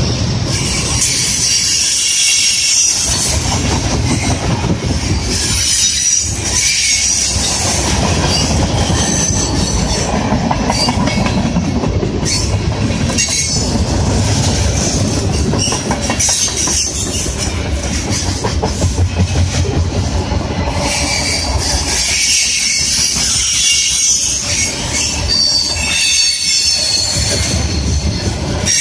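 Freight train of covered hopper cars and centerbeam flatcars rolling past: a steady rumble of steel wheels on the rails, with a high-pitched wheel squeal that comes and goes several times.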